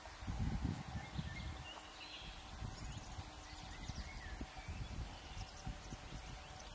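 Gusts of wind buffeting the microphone in irregular low rumbles, strongest about half a second in, with birds chirping faintly.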